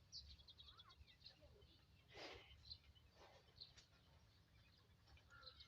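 Near silence with faint, scattered bird chirps over a low steady hum.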